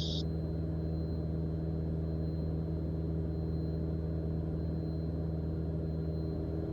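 Mooney M20J's four-cylinder Lycoming engine and propeller at cruise power, a steady, even drone heard from the cockpit. A high hiss cuts off right at the start.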